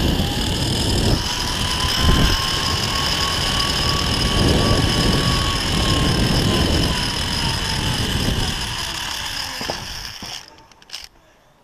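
Zip-line trolley running down the steel cable: a pulley whine that rises and then falls in pitch over heavy rushing wind noise. It cuts off suddenly about ten seconds in, followed by a few clicks.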